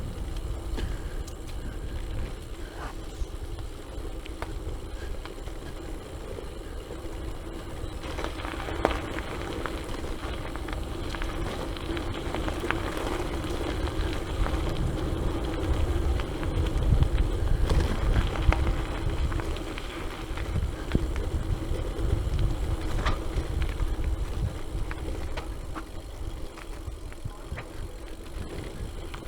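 Gravel bike riding over a rough gravel and mud track: the tyres run with a steady hum and scattered ticks and rattles from stones, over a low rumble of wind on the microphone.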